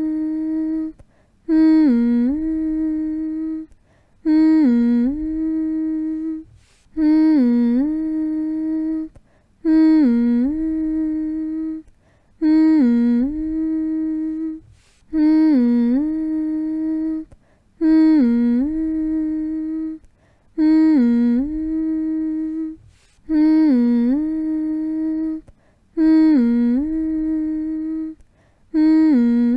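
A person humming one long note over and over, each phrase about three seconds long with a short break between. Every phrase opens with a quick dip in pitch and back up, then holds steady, and the phrases repeat the same way each time. This is a soothing hum for lulling a baby to sleep.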